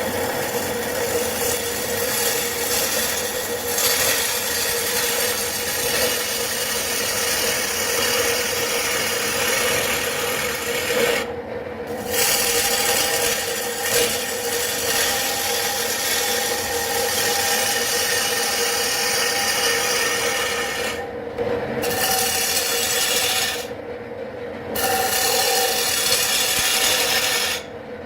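Wood lathe running with a steady hum while a tool or abrasive is held against the spinning wooden plate blank, making a continuous rasping, rubbing noise. The rubbing breaks off briefly four times, in the middle and towards the end, as the tool comes off the wood, and the lathe's hum carries on through each break.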